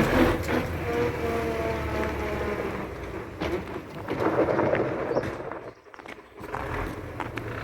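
MTZ tractor running with a whine that fades over the first second or two, then rumbling with knocks and clicks, dropping away briefly about six seconds in. The howl and knock are the sign of trouble in the transmission, which the owner traces to a nut that came loose.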